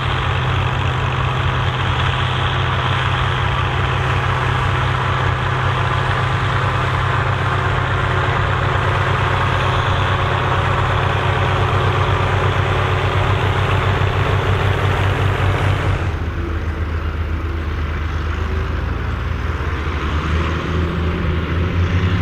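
Massey Ferguson 2680 tractor's diesel engine running steadily while pulling a cultivator. About two thirds of the way through, the sound changes abruptly to a duller, slightly quieter engine note, and near the end the engine note rises in pitch.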